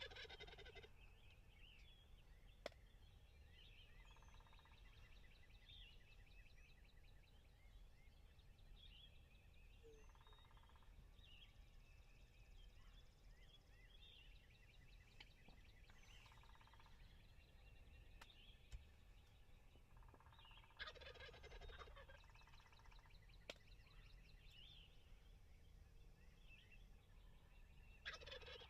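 Wild turkey gobbler gobbling close by: three loud rattling gobbles, one at the start, one about 21 seconds in and one near the end, with fainter calls between them. Small birds chirp faintly throughout.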